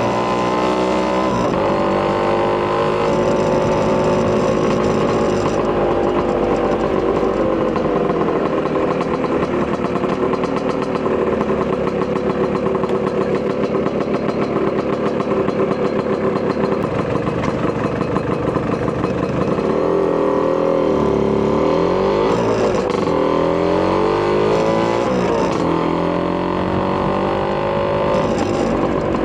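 Vespa PX200 scooter's two-stroke single-cylinder engine, bored out to 210cc with a Polini kit and breathing through a Marossi expansion-chamber exhaust, running under way. Its pitch holds steady for most of the time, then rises and falls several times near the end as it revs up and eases off.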